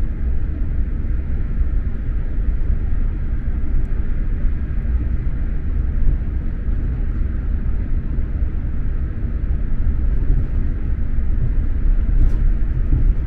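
Steady running noise of an SJ X2000 high-speed train heard from inside a passenger carriage: an even, low rumble of the wheels on the track.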